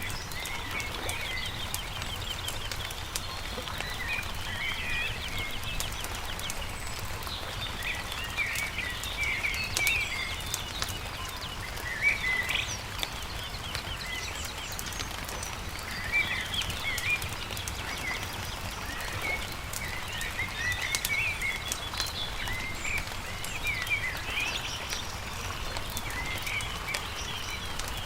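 Songbirds chirping and trilling over the crackle and pops of a campfire, with a steady low rumble underneath.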